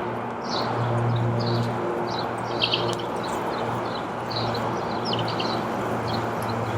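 Small birds chirping in short, quick clusters over a steady low hum and a constant rush of background noise.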